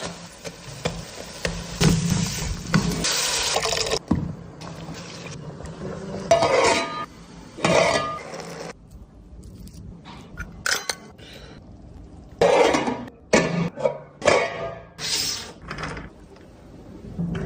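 Dishes and utensils clinking, with splashing liquid. A busy first few seconds, then separate short bursts of clatter with quieter gaps.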